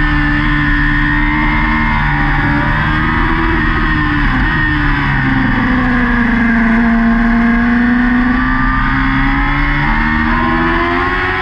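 Yamaha R6 race bike's inline four-cylinder engine running hard at high revs, heard onboard. The note drops in the middle and climbs again near the end as it pulls out.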